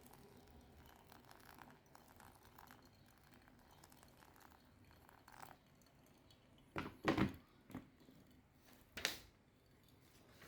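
Faint handling noises, then a few short knocks: a quick cluster about seven seconds in, one just after, and another about nine seconds in, like parts of a coffee grinder being handled and set down.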